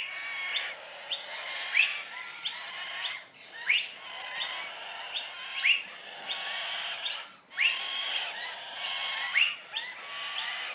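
Baby birds chirping: many short, sharp rising chirps repeating about once or twice a second over a steady background chatter of smaller calls.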